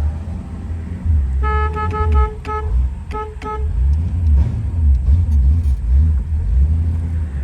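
A 289 V8 engine is running with low road rumble while driving. About a second and a half in, a horn sounds in a run of five quick toots, then three more after a brief pause.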